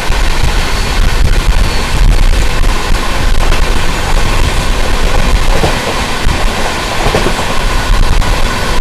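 Express passenger train running on the track, heard from on board: a loud, steady rumble and rattle of the moving coaches.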